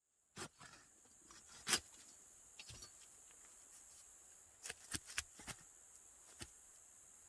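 Scattered light taps and clicks at an irregular pace, over a faint steady high-pitched hiss.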